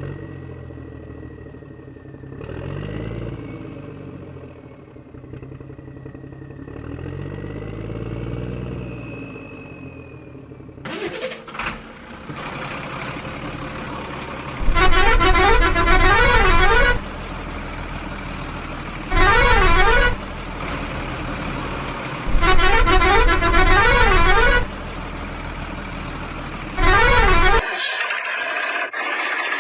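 Vehicle engine running with rising and falling revs, then a vehicle horn sounding in four loud blasts of wavering pitch, the first about fifteen seconds in.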